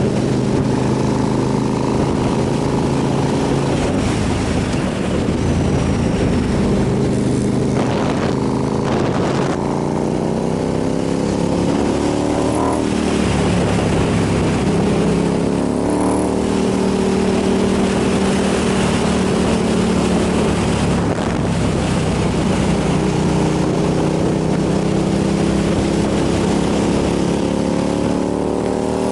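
Motorcycle engine under way while riding: the revs climb and drop sharply at a gear change about 12 seconds in, run steady for a while, then climb again near the end, over a steady rush of wind noise.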